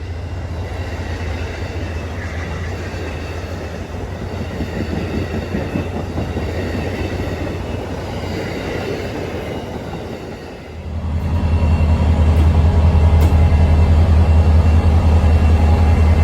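Added train sound effect: a full-size train rumbling along the rails. About eleven seconds in it gives way to a louder, steady low engine drone.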